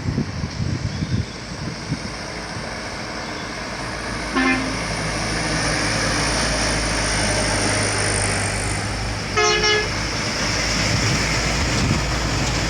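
Heavy trucks' engines running hard under full throttle, with two short horn toots, one about four and a half seconds in and a second, brighter one just before ten seconds.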